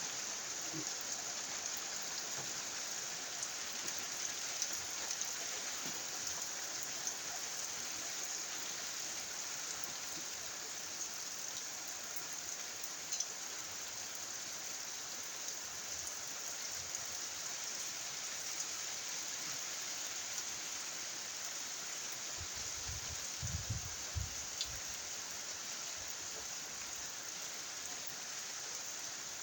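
Steady rain falling on a milpa cornfield, an even hiss with scattered drop ticks. A few low thumps come a little over three-quarters of the way through.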